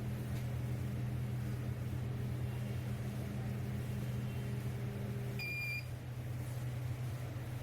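Microwave oven running with a steady hum. About five seconds in, part of the hum cuts off and a single short electronic beep sounds, the end of the heating cycle. A lower steady hum carries on after.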